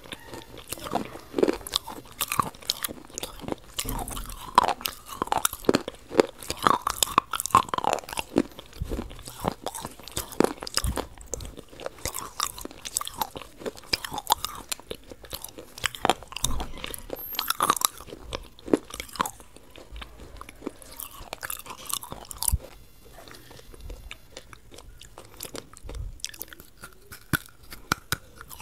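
Close-miked mouth sounds of someone eating: wet chewing with many small crunches and crackles, easing off for a few seconds late on, then a bite near the end.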